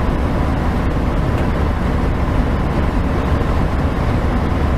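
Steady engine and road noise inside a heavy truck's cab while it runs down a long steep grade, a constant deep rumble with no distinct events.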